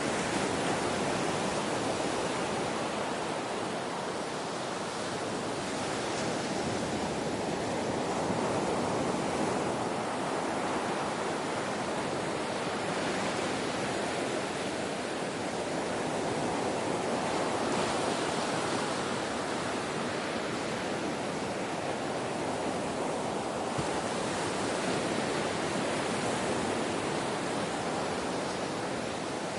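Ocean waves washing in, a continuous rush of surf that swells and eases gently every several seconds.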